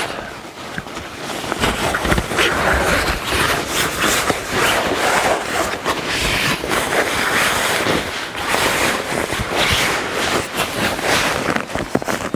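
Continuous rustling, scraping and crinkling of a folded air mattress and nylon hammock fabric as the mattress is pushed valve-first into the hammock's sleeping-pad sleeve, with many small crackles throughout.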